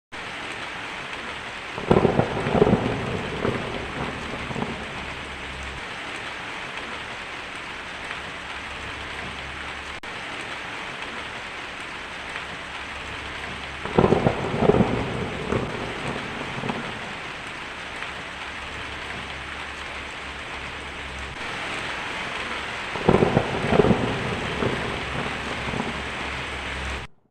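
Steady rain, with three thunderclaps: each a sharp crackling clap fading into a rumble over a few seconds. They come about two seconds in, about halfway through, and near the end. The sound cuts off abruptly just before the end.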